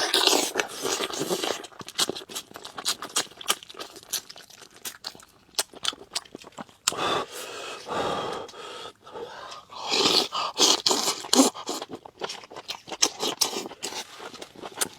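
A person eating salt-baked chicken: wet chewing and lip-smacking in many irregular sharp clicks, with a few louder noisy slurping or sucking spells of about a second each.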